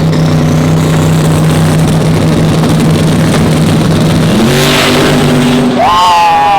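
Racing truck engine running hard at a steady high speed, its pitch stepping up about four and a half seconds in, with a brief wavering high tone near the end.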